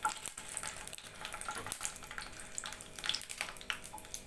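Dried red chillies sizzling and crackling in hot gingelly (sesame) oil in a nonstick pan, turned over with a wooden spatula.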